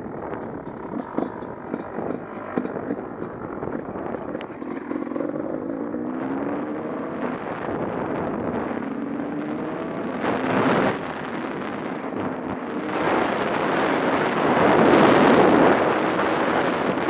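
Husqvarna WR 300 two-stroke engine revving up several times as the bike accelerates, mixed with wind rushing over the action camera's microphone. The wind noise swells loud and drowns the engine in the last few seconds.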